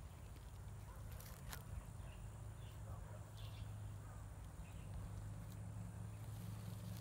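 Faint outdoor ambience: a few short, scattered bird chirps over a low steady hum, with one sharp click about a second and a half in.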